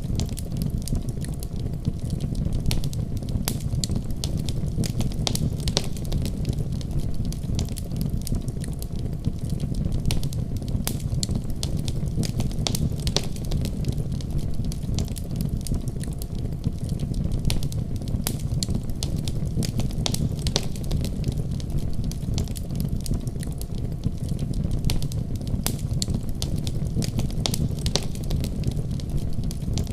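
Wood fire burning with a steady low rumble of flames and frequent irregular crackles and pops.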